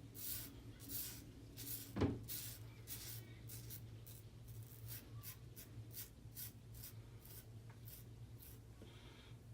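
Merkur 20C double-edge safety razor with a Kai blade scraping through two days of lathered stubble in a quick series of short strokes. One louder knock about two seconds in.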